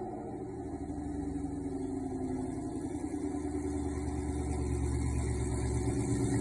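2016 Ford Mustang GT's 5.0-litre V8 idling through Kooks headers and a Corsa Xtreme cat-back exhaust: a steady, deep exhaust rumble that grows slightly louder toward the end.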